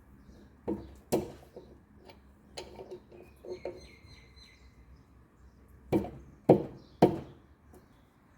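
Irregular knocks and clicks of parts and hand tools being handled during reassembly of a washing machine's direct-drive motor. Three louder knocks come about six to seven seconds in.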